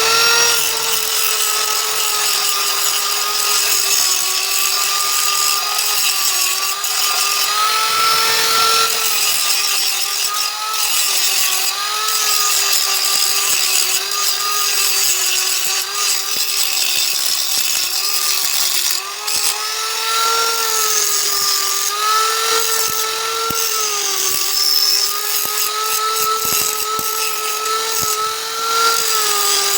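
Handheld electric angle grinder spinning up, then running steadily on metal. Its whine wavers slightly in pitch over a constant hiss.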